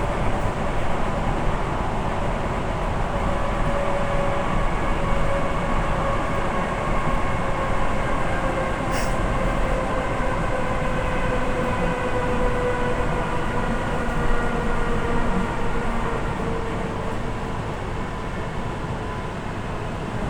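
Suburban electric train running on the rails: a steady rumble with a motor whine that slowly falls in pitch as the train slows. There is a brief high-pitched squeal about nine seconds in.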